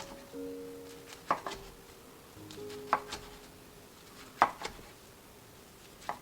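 Knife chopping down through a kimbap roll onto a cutting board: four sharp taps, about one every second and a half, over soft background music.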